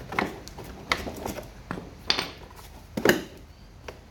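Hand work on a lawn mower's belt housing: a series of clinks, knocks and scrapes as tools and metal and plastic parts are handled, the loudest about three seconds in.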